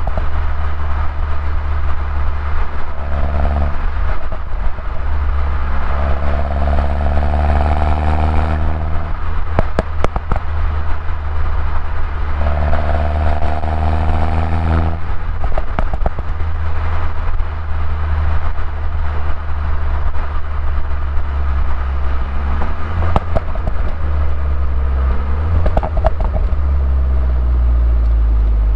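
2011 Mini Cooper S R56 with its stock exhaust, driving: its turbocharged 1.6-litre four-cylinder runs over a steady deep drone. The engine note rises twice as the car accelerates, about six and twelve seconds in, and each climb cuts off abruptly.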